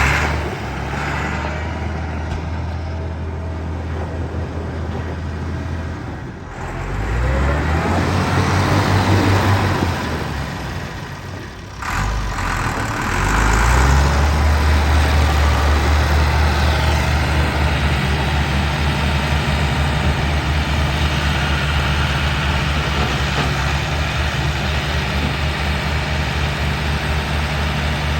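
Massey Ferguson 1135 tractor's six-cylinder diesel engine running. It is revved up about seven seconds in, drops back briefly near the twelve-second mark, then is revved up again and held steady at the higher speed.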